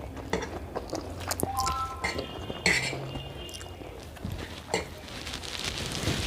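People eating instant noodles: chewing, with cutlery clinking and knocking against plates.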